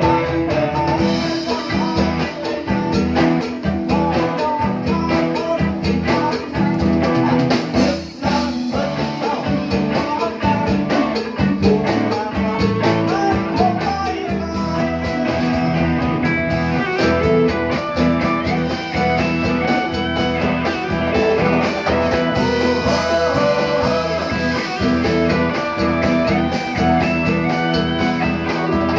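A band playing live: plucked guitar over a steady beat, with held notes above, sung in places.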